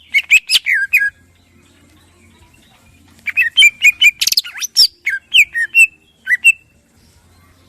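Greater green leafbird (cucak ijo) singing in loud bursts: a quick run of sliding notes at the start, a pause of about two seconds, then a longer phrase of rapid chirps and slurred whistles.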